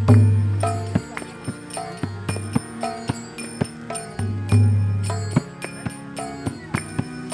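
Kirtan instruments playing without voices: small hand cymbals (karatalas) striking in a steady rhythm over a two-headed mridanga drum, whose deep bass strokes ring out for about a second at the start and again about halfway through.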